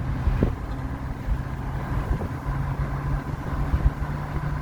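Car engine and road noise heard from inside the cabin, a steady low hum.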